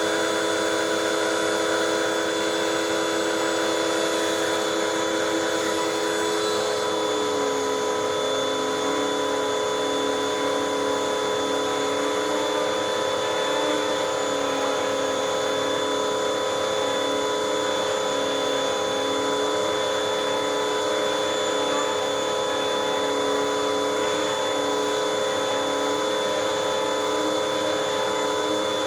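Hoover WindTunnel 2 upright vacuum cleaner running steadily with a constant motor whine. About seven seconds in, one of its lower tones drops a little in pitch and then wavers up and down.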